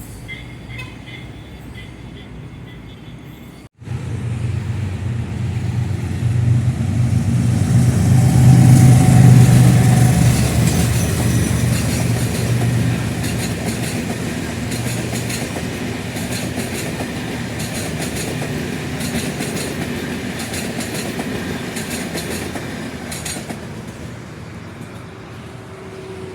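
A train hauled by a General Electric diesel locomotive passes, with the engine loudest about nine seconds in. The coaches then roll by with rapid clicking of wheels over the rail joints, fading near the end. Before a sudden cut about four seconds in, a quieter train rumble with faint high squeal is heard.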